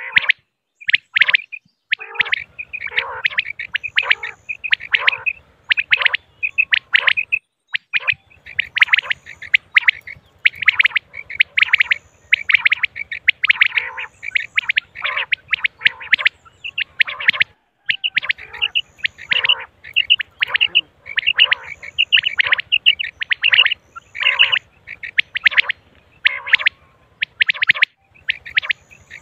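Female common quail calling over and over, short chirping calls in quick, irregular succession, at times overlapping, with a faint low buzz underneath.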